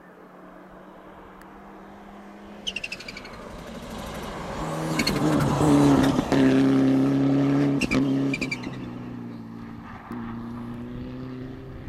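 Rally car engine at high revs as the car passes, growing to its loudest about midway, with brief dips at gear changes, then running on more quietly.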